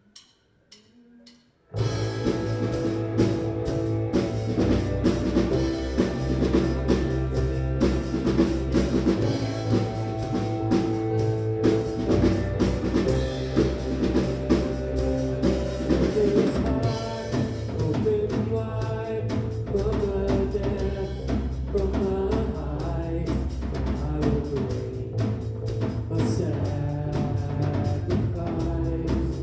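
Four evenly spaced clicks, then about two seconds in a full band starts with drum kit, bass and singing, keeping a steady beat.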